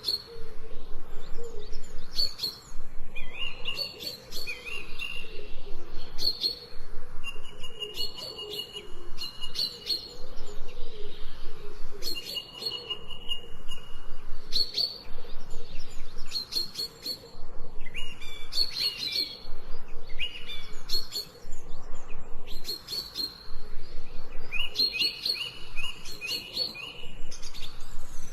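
Songbirds singing in a forest: a steady run of short, high chirping phrases and quick trills, one after another.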